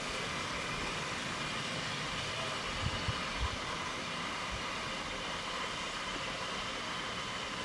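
Heritage railway coaches running along the track, heard from an open carriage window: a steady rolling noise, with a few low knocks about three seconds in.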